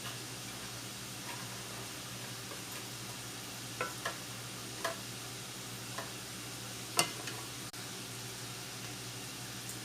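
Food cooking in a pot on the stove, with a steady low hum and faint sizzle, and a spoon stirring and clinking against the pot about five times, the loudest clink about seven seconds in.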